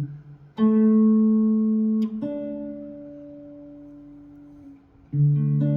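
Guitar chords played one at a time, three in all: the first a D power chord at the fifth fret, about half a second in, then another about two seconds in that rings and slowly fades, and a third near the end.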